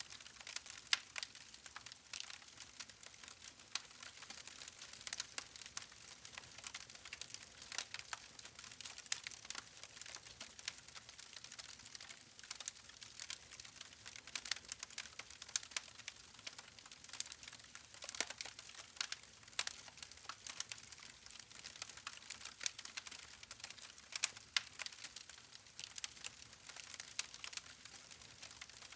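Wood campfire crackling: many small, sharp snaps and pops at irregular intervals over a faint hiss.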